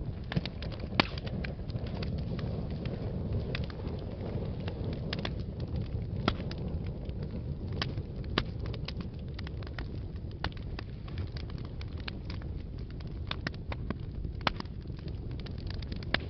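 Fire in a fireplace crackling: irregular sharp pops and snaps over a steady low rumble of flames, with the loudest pop about a second in.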